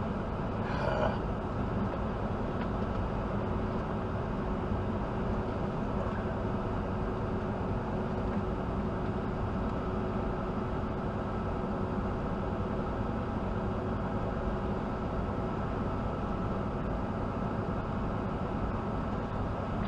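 Steady road and engine noise inside a truck's cab while driving, an even rumble with a faint constant hum.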